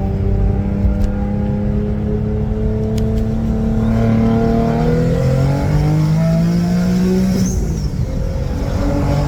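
Twin-turbo Infiniti G37's VQ V6 held at steady revs, then accelerating hard from about four seconds in, pitch climbing through the gears with two upshifts, the second with a brief hiss.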